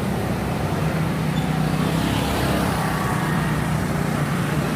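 Road traffic noise: motor vehicles running close by, with a steady low engine hum.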